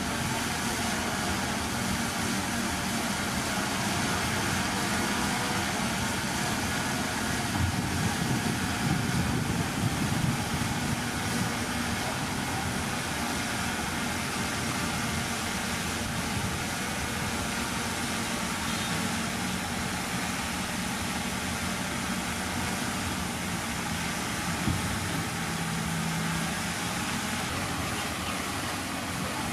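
Heavy diesel engine of earthmoving machinery running steadily, rising a little in loudness for a few seconds near the middle.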